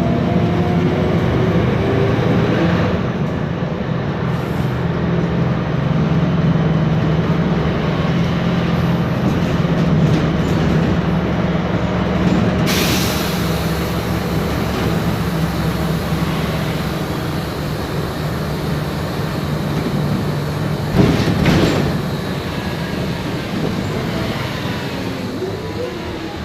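MAN Lion's Classic city bus under way, heard from inside: its MAN E2876 CNG engine running with the whine of its ZF Ecomat 6HP504C six-speed automatic gearbox. A brief hiss about halfway through and a short louder burst of noise about three-quarters through.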